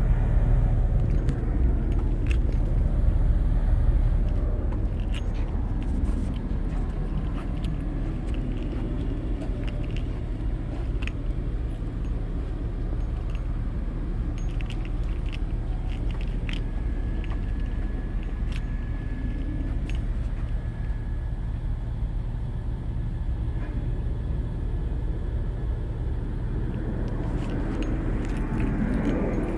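The 2020 Nissan Maxima SV's 3.5-litre V6 idling steadily, heard at the dual exhaust, with a few light clicks over it.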